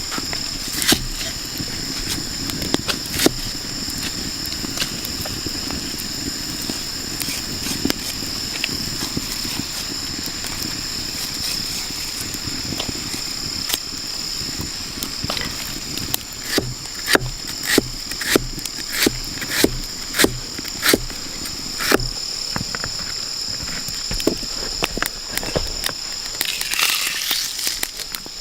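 Rainforest insects keep up a steady drone at two high pitches, over a run of sharp knocks or taps, about two a second, in the second half.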